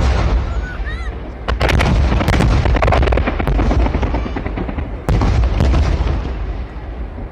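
Aerial fireworks bursting: heavy booms at the start, about a second and a half in and again about five seconds in, with a dense run of rapid crackling bangs between them.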